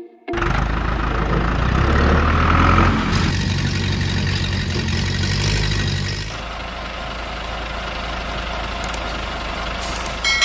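Heavy vehicle's diesel engine running steadily, cutting in abruptly a moment in; its sound shifts about three seconds in and settles quieter about six seconds in.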